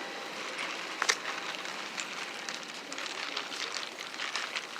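Steady hissing background noise with scattered small clicks and knocks, one sharper knock about a second in.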